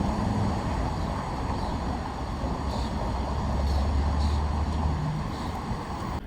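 A steady low rumble, like a running engine or vehicle, with a deeper hum that swells from about three and a half seconds in to about five seconds in.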